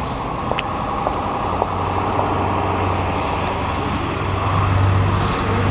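Road traffic: a motor vehicle's steady low drone, growing louder near the end as it passes close, with a few light clicks early on.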